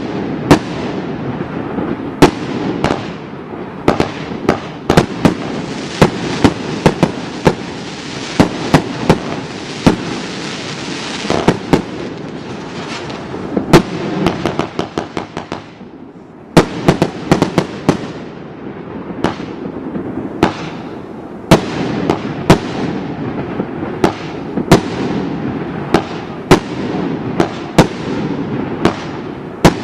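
Geisha 'Cannonade' firework cake firing: a steady run of sharp bangs at irregular intervals over a continuous rumble, with a hissing crackle for several seconds in the first third. Near the middle comes a quick run of pops and a short lull, then the bangs resume.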